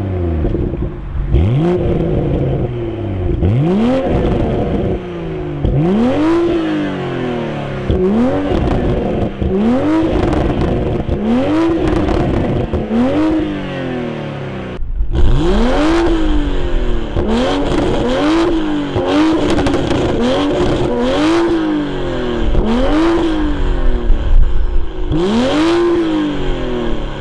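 2021 Toyota GR Supra (A90) engine and exhaust, heard from the rear of the stationary car, revved in sharp blips. The pitch shoots up and falls back about once every one to two seconds, with a brief break near the middle.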